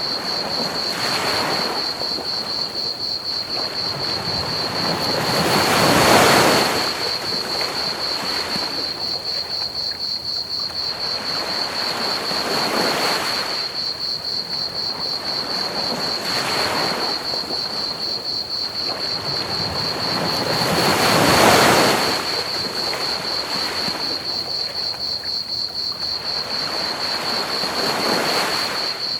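Ocean waves breaking on a beach, swelling and fading every few seconds, with two bigger waves about six seconds in and past twenty seconds in. Under them a steady, high cricket trill chirps without a break.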